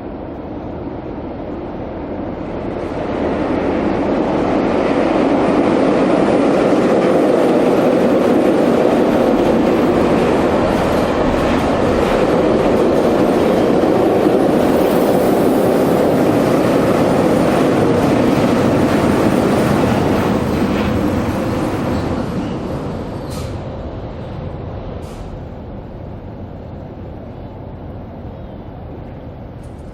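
A large vehicle passing close by: a dense, steady noise builds over a few seconds, stays loud for about fifteen seconds, then fades away.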